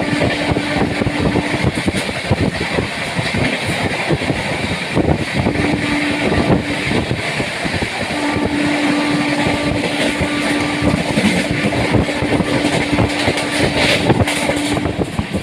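Superfast express passenger train running at speed: a dense, steady rush of wheel-on-rail and wind noise with fine rapid clatter, and a steady low hum that comes and goes several times.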